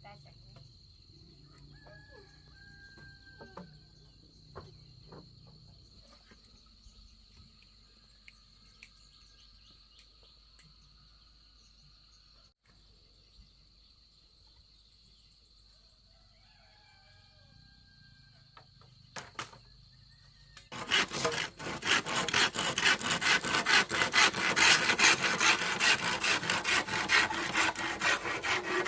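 A steady high insect drone, then, about two-thirds of the way in, a hand saw starts cutting wood in loud, quick back-and-forth strokes.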